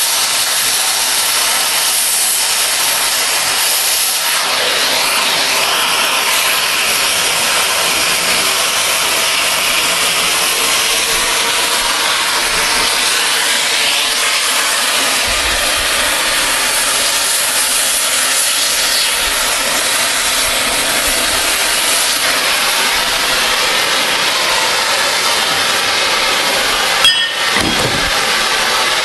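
Oxy-fuel cutting torch hissing steadily as its cutting jet burns through steel railroad rail, with a single sharp knock near the end.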